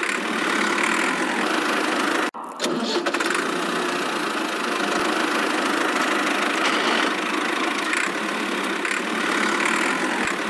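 Steady mechanical running noise from a small motor, cut off for a moment about two seconds in and then going on.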